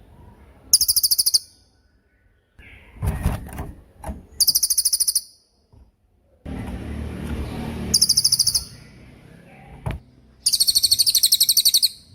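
Cililin bird singing its rapid 'tembakan' phrase: four short, very high-pitched trills of fast repeated notes, each under a second or so. Duller background noise fills the gaps between them.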